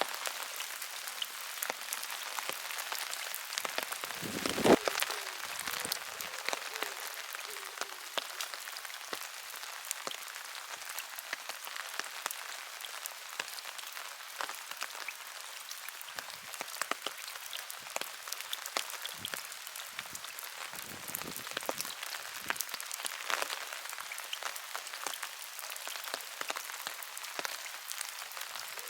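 Rain falling on open water: a dense, steady patter of many small drops hitting the surface. About five seconds in there is one louder, deeper knock.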